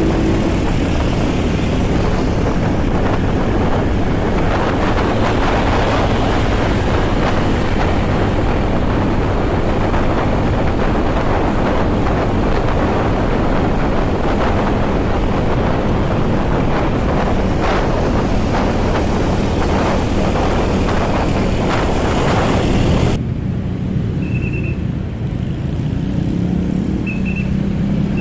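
Motorcycle engine running while riding, with heavy wind rush over the microphone. Late on the wind noise drops away abruptly, leaving the engine, whose note rises near the end.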